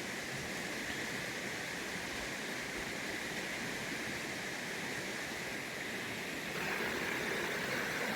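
Steady rush of flowing river water, getting a little louder about six and a half seconds in.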